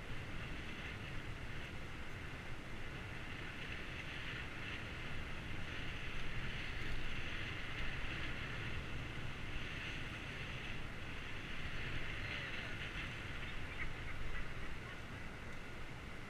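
Wind rumbling on the microphone of a GoPro on a moving bicycle, with a steady high-pitched whir over it that grows louder through the middle and fades near the end.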